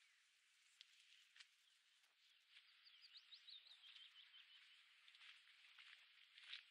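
Faint bird song: a quick run of short high chirps about three seconds in, over a steady hiss. Soft footsteps on a path become more frequent near the end.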